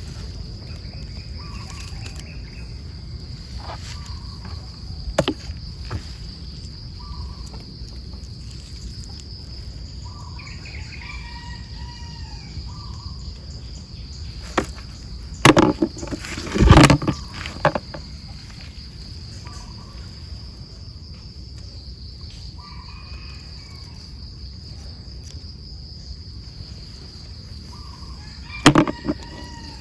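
Insects trilling in one steady high tone, with short calls lower in pitch coming and going every few seconds. A few sharp knocks and bumps cut in, the loudest a cluster a little past halfway and another near the end.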